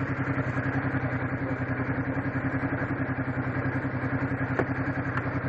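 Motorcycle engine idling steadily with an even, regular pulse.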